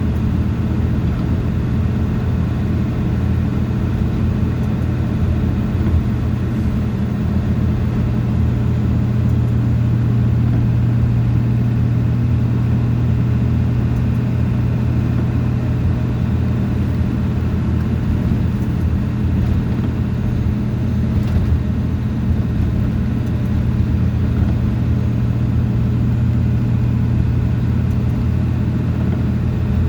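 A vehicle's engine and road noise as a steady low drone while it is driven along at an even pace.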